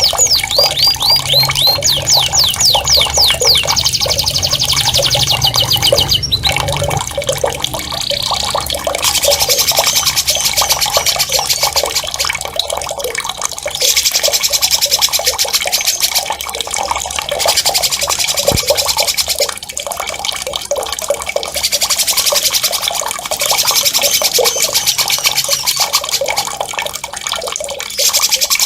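Songbird singing in fast, rolling high trills over the steady sound of running water. It opens with a quick run of repeated whistled notes that sweep down in pitch, then turns to dense high trilling that comes and goes in stretches of a few seconds.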